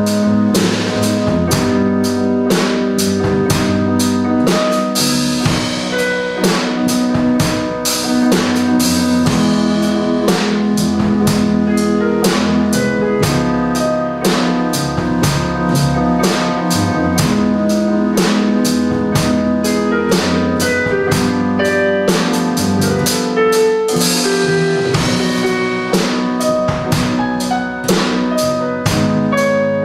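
Jazz trio of keyboard, bass and drum kit playing, held keyboard chords over a bass line with the drums keeping a steady, evenly spaced beat.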